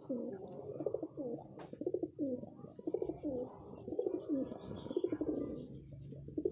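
Several domestic pigeons cooing together, their rolling coos overlapping one after another.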